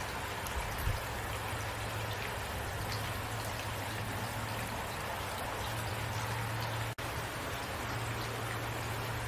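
Steady rain falling, with drops pattering over a constant hiss and a low steady hum underneath. The sound cuts out for an instant about seven seconds in.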